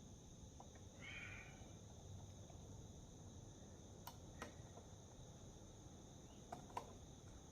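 Faint small clicks and a brief scrape of a wrist-pin circlip being worked into its groove on a chainsaw piston, over near silence: a soft scrape about a second in, then four light clicks in two pairs.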